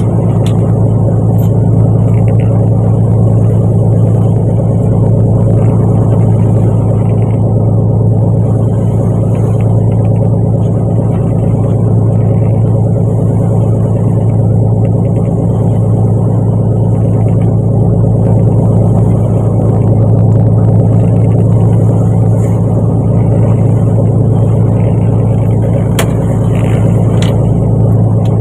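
Fishing boat's engine running at a steady speed, a loud, even, low drone that does not change.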